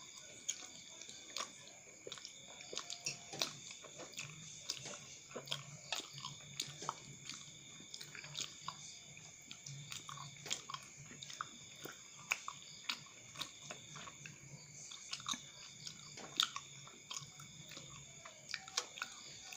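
Close-up chewing and biting of chewy cilok tapioca balls in sambal sauce, with many irregular wet mouth clicks and smacks.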